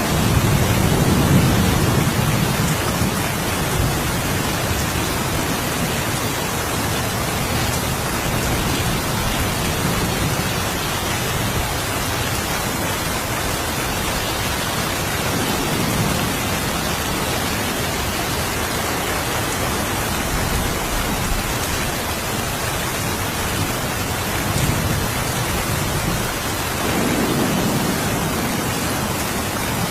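Steady rain falling, with low rolls of thunder rumbling at the start, again about halfway through, and once more near the end.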